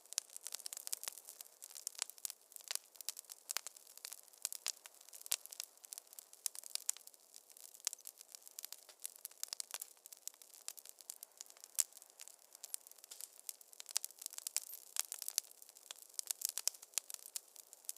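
Wood fire crackling in a fireplace: a dense, irregular run of small pops and snaps, with no low rumble beneath.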